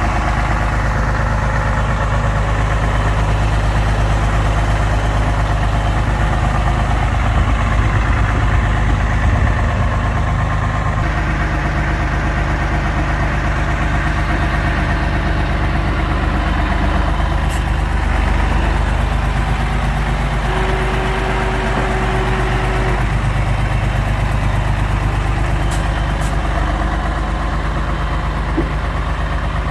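Scania 113 M 310 tipper truck's six-cylinder diesel engine idling steadily, its low note shifting slightly about a third of the way in.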